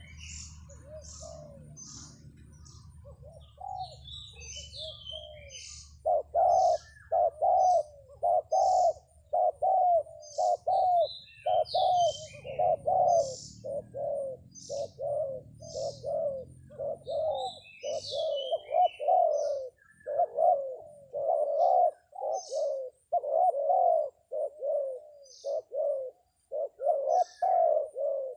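Spotted doves (terkukur) cooing, a long run of short low coos in quick succession that becomes loud about six seconds in. Small birds' high chirps are scattered above the cooing.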